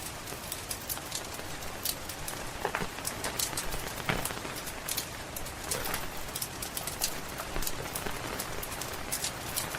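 Steady rain with frequent sharp crackles and pops from a wood fire burning in a fireplace. A few brief higher sounds rise out of it near the middle.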